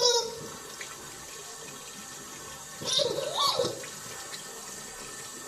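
Rubber chicken toy squeezed in water, giving two wet, wavering squawks: one right at the start and a longer one about three seconds in. Water runs steadily between them.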